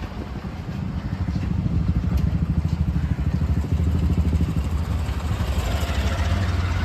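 A small motor vehicle's engine running close by, with a fast, steady low firing beat.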